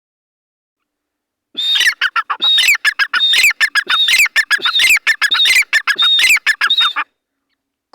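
Male grey francolin (teetar) calling: a loud, rapid run of repeated harsh notes that starts about a second and a half in and stops about a second before the end.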